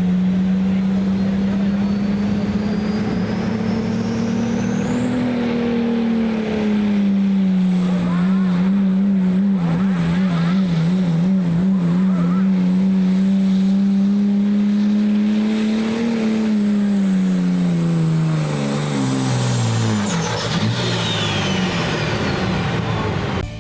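Work stock diesel pickup's turbocharged engine running at full throttle on a truck pull, with a high turbo whistle that climbs about five seconds in and holds. Around the middle the engine note wavers rapidly, then near the end the engine and whistle wind down as the pull ends.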